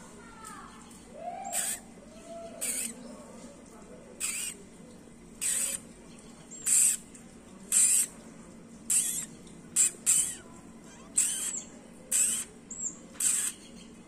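A small nesting bird calling: short, sharp, high-pitched notes repeated about once a second, some coming in quick pairs.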